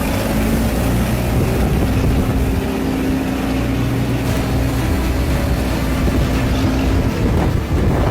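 A boat's engine running steadily with a low hum, over a broad wash of wind and water noise.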